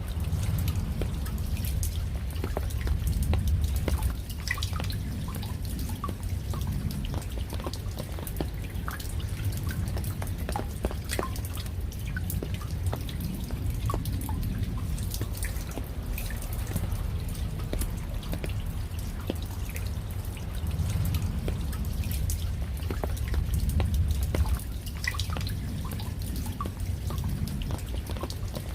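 Raindrops falling, with many separate drips landing at irregular intervals over a steady low rumble.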